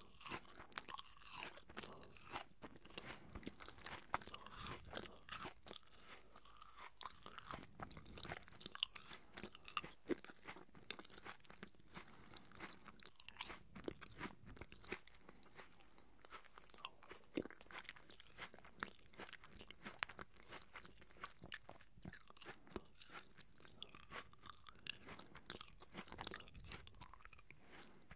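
Close-miked chewing of juicy apple pieces: many small crisp crunches and wet mouth smacks in quick succession.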